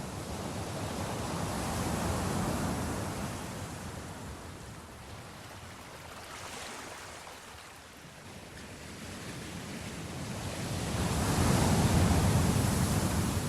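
Sea waves washing in slow surges: a swell about two seconds in, a lull midway, and a louder swell near the end.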